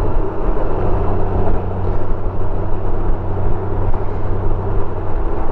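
Honda Gold Wing motorcycle cruising at road speed: a steady engine drone with a constant hum under an even rush of road and wind noise.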